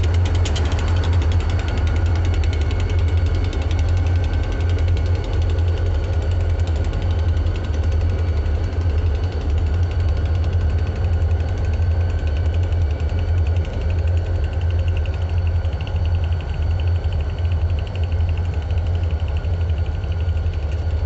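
An engine idling: a steady, heavy low rumble with a few faint steady tones above it.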